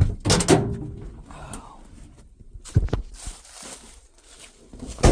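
A truck's cab door being worked: a few separate thunks and knocks, the loudest near the end.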